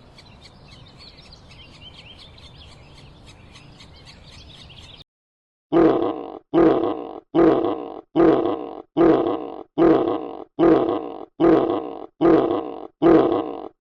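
Outdoor background with birds chirping faintly, then cut off. After a short pause an animal grunts ten times in a steady rhythm, about one loud grunt every three-quarters of a second.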